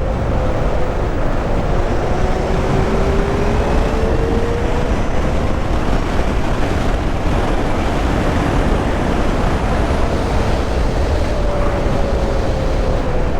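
Wind and road noise rushing over the microphone while riding a Zero SR/F electric motorcycle, steady and loud with a heavy rumble. Under it the electric motor's faint whine rises in pitch a couple of seconds in, and falls again near the end as the speed changes.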